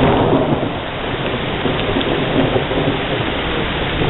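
Heavy cloudburst rain pouring down, a dense steady hiss with a deeper rush from storm runoff.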